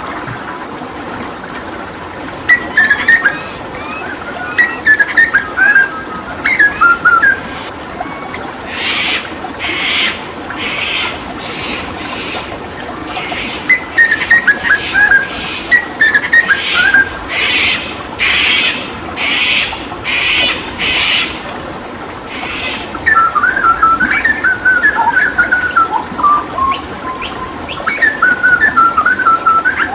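Hooded butcherbird singing: warbling whistled phrases, broken in the middle by a long run of short harsh, rasping calls coming more than once a second. A steady rush of running water lies underneath.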